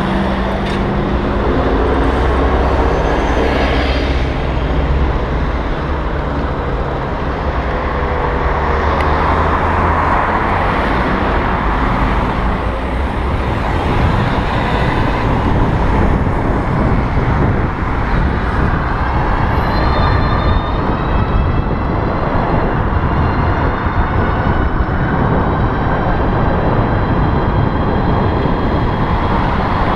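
Road and traffic noise heard while riding an electric bicycle in traffic: a loud, steady rumble from wind on the microphone, with motor-vehicle traffic around it. A steady engine hum runs through the first dozen seconds, and whines rise and fall about two-thirds of the way through.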